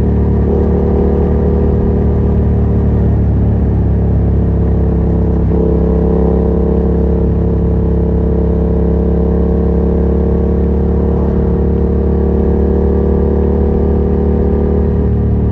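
Yamaha MT-07's parallel-twin engine running through a Yoshimura R77 exhaust with its dB killer removed, holding a steady engine speed.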